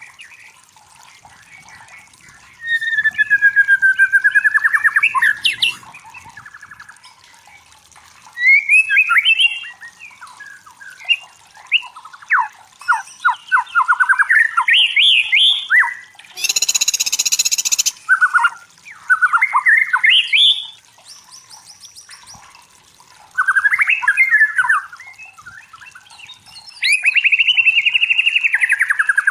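White-rumped shama singing: loud phrases of rapid sweeping whistles and trills, each a second or two long, separated by short pauses, with one harsh noisy burst about halfway through.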